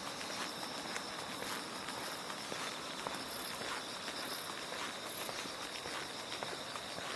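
Autumn night insects calling: a steady high trill, with a higher chirp repeating about once a second. Faint shoe footsteps are heard under them.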